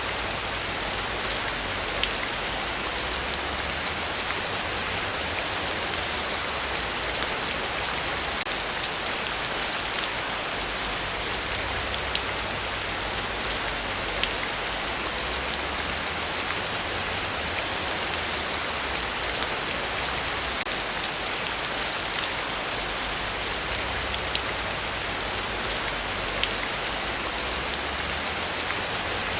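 Heavy rain falling steadily, with fine ticks of individual drops striking surfaces, over a faint low rumble that comes and goes.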